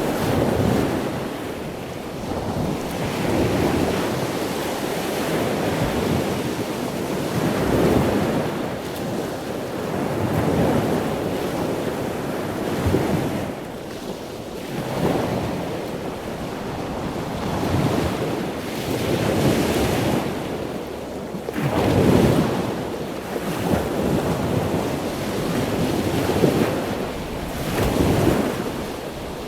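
Ocean surf: waves washing in one after another, each surge rising and falling every two to three seconds, over a steady rush of wind.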